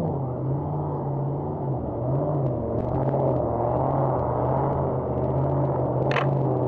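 Car engines idling at a drag strip: a steady low rumble whose pitch wavers a little. A brief high chirp sounds about six seconds in.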